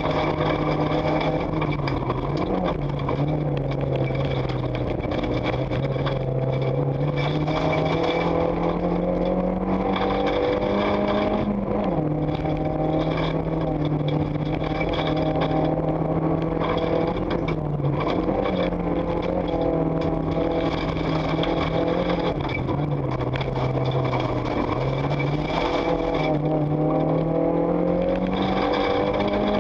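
Renault Mégane 1600 cc rally car engine heard from inside the cabin, pulling hard on a gravel stage. Its revs climb steadily and drop sharply again and again as it shifts up and down through the gears, over a steady hiss of gravel and road noise.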